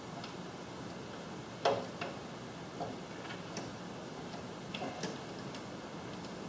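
Scattered light clicks and taps of small parts being handled, irregular, with the loudest a little over a second and a half in, over a faint steady hiss.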